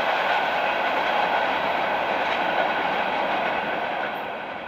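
Passenger train's coaches rolling away along the track: a steady noise of wheels on rails that starts to fade near the end.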